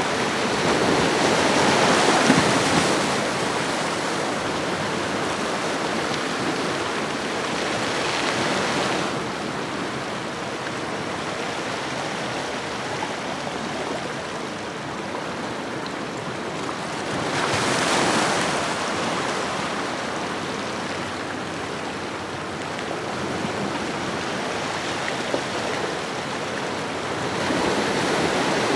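Ocean waves washing onto a shore, a steady rush of surf that swells as waves break about two seconds in and again about eighteen seconds in, then builds once more near the end.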